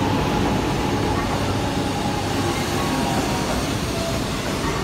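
Double-decker Shinkansen bullet train running past a station platform: a steady, even rumble and rush of wheels and moving carriages.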